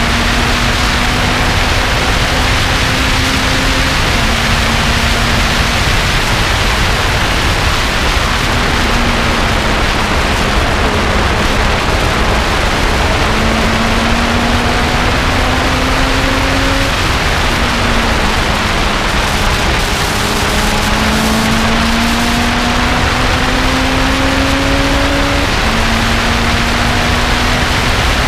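Lotus car engine under hard acceleration on track, its pitch climbing slowly and then dropping back at each gear change, about five times. A steady roar of wind and road noise is louder than the engine.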